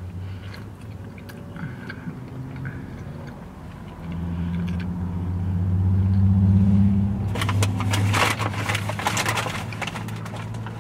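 Someone chewing a mouthful of breakfast burrito, with a crackling rustle of the paper wrapper from a little past halfway, over a steady low hum that swells in the middle.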